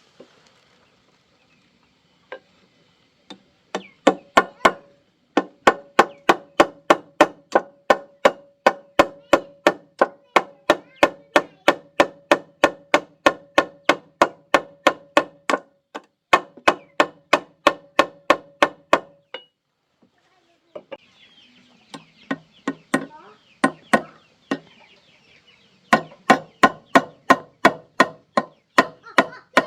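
Steady, rapid striking, about three blows a second, in long runs with short pauses; each blow has a slight ringing tone. Chickens cluck in the background.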